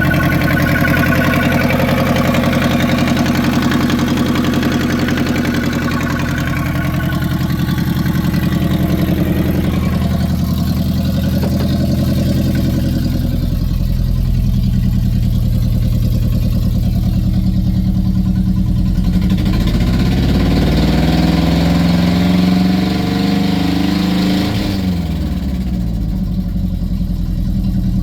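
2011 Great Wall V240's 2.4-litre petrol four-cylinder engine idling steadily, then revved up and down a few times about two-thirds of the way through before settling back.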